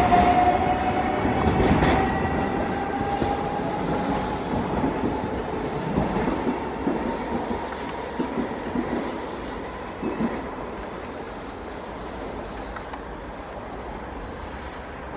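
A train running past and moving away, growing steadily quieter. A thin steady whine that rises slightly in pitch fades out in the first few seconds, and scattered knocks of wheels over rail joints follow.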